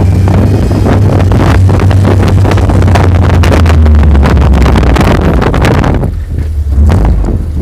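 Off-road vehicle driving, its engine a loud low rumble, with wind buffeting the microphone and many irregular knocks and rattles; it dips briefly quieter near the end.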